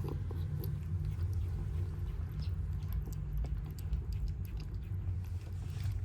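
Cats chewing and crunching their food, a quick run of small, irregular clicks, over a steady low rumble.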